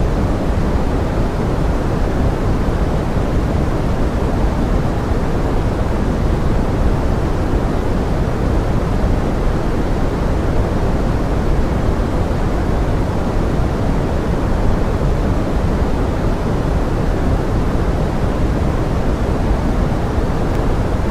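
Pink-noise forest rain: a steady, even hiss weighted toward the low end, with no separate drops standing out and no changes.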